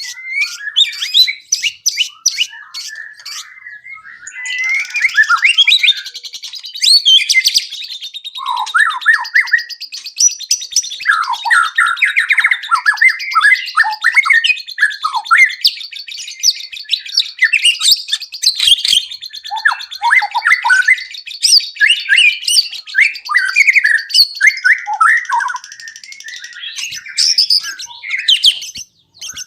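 White-rumped shama singing a long, varied song of loud whistles, sweeping glides and fast chirping phrases, with a steady high buzzing trill underneath for most of it.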